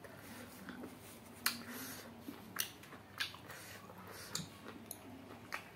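Close-miked chewing of cooked duck, with about five sharp wet smacks or crunches spaced roughly a second apart.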